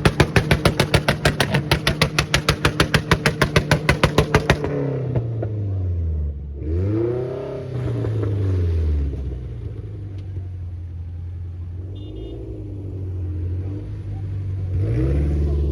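A car engine held at high revs, cutting in and out in a fast, even stutter typical of bouncing off the rev limiter, then dropping and being revved up and down several times, with another rev near the end.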